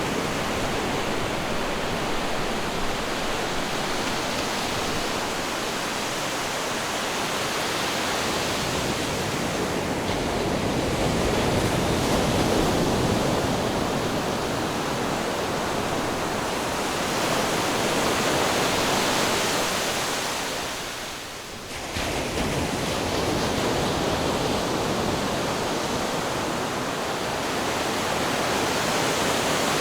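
Ocean surf: waves breaking and washing in as a continuous rush that swells and eases slowly. About twenty-one seconds in it briefly fades, then comes back suddenly.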